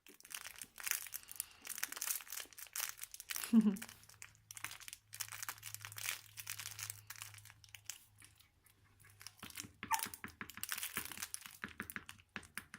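Irregular crinkling and rustling, as of something moving over crinkly material, with one short falling squeak about three and a half seconds in.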